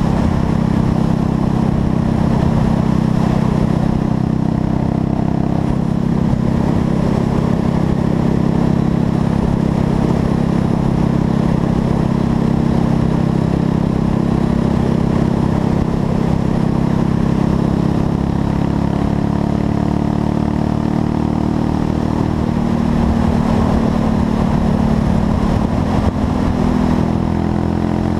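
Buell Blast's single-cylinder engine running steadily at highway cruising speed, its carburetor fitted with a new jet kit; the engine note shifts slightly in the last few seconds.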